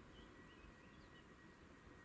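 Near silence: faint hiss with a thin, steady high tone and a few faint, short chirps.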